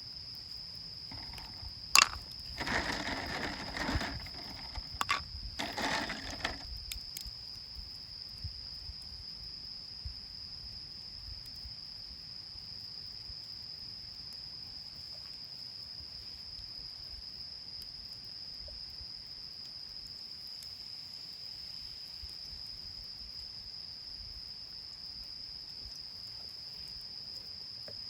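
Night insects singing a steady, high-pitched unbroken trill. A sharp click comes about two seconds in, followed by a few seconds of rustling, handling noise.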